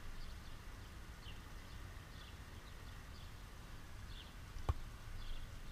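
Small birds chirping in short high calls about twice a second over a faint low rumble, with one sharp knock near the end, a football being kicked.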